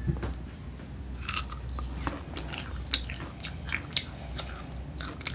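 Close-up biting and chewing of crisp unripe green mango, a run of wet crunches with two sharp, loud crunches about three and four seconds in.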